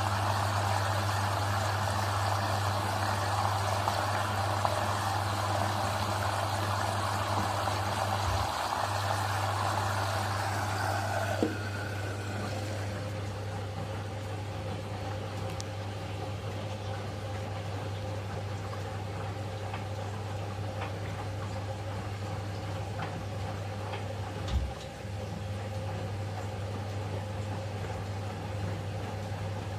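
Eudora 38 Super washing machine taking in water for a rinse, a steady rush of inflowing water over a low hum. The inflow cuts off abruptly with a click about eleven seconds in, leaving the hum, light ticking and one short knock later on.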